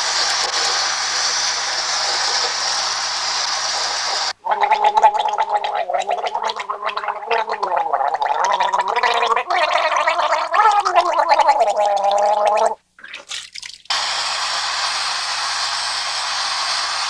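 Water running steadily, then a man gargling loudly for about eight seconds, the pitch of the gargle sliding up and down like a tune; the running water comes back near the end.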